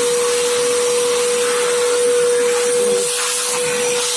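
Arnica Damla Plus 2400 W water-filter vacuum cleaner running steadily on its first test start-up: one steady motor whine over the rush of suction air.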